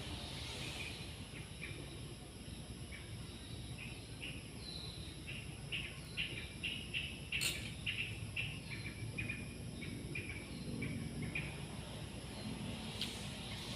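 Small birds chirping repeatedly over steady low background noise, the chirps thickest in the middle, with one sharp click about seven and a half seconds in.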